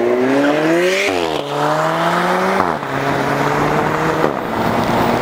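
Alfa Romeo 4C's 240 hp turbocharged four-cylinder accelerating hard, its note climbing in pitch and dropping sharply at quick upshifts about a second in, around the middle and near the end.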